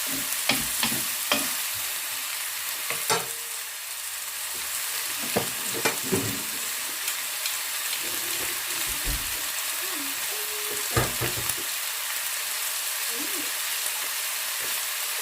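Chicken pieces with bell peppers and onion sizzling in hot oil in a pan, with many short sharp clicks of a utensil scraping and knocking against the pan as the stir-fry is stirred.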